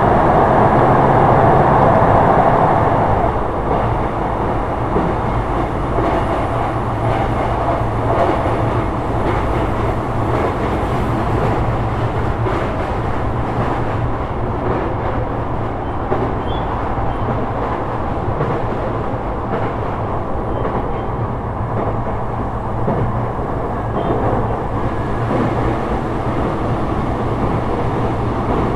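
Sotetsu 12000 series electric train running at speed: a steady rumble of wheels on rail with a low hum, louder for the first three seconds and then settling to an even level.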